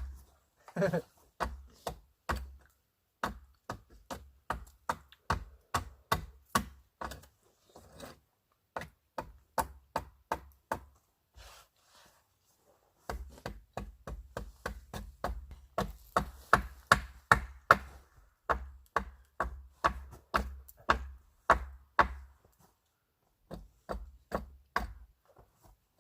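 A tool striking wood over and over, about two to three sharp knocks a second, each with a dull thud. The knocking comes in runs with a short pause about halfway through and another near the end.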